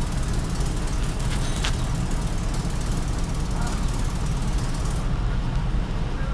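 Mercedes truck's diesel engine idling steadily, a low even pulse; the diagnostic scan reports cylinder number 4 not firing. A couple of faint clicks about a second and a half in.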